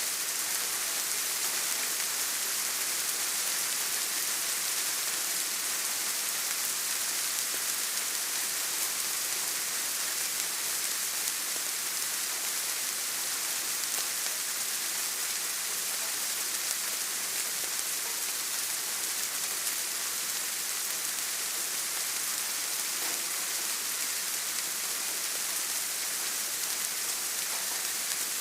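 Steady rain: a dense, even hiss that is strongest in the high end, with no separate drops or breaks standing out.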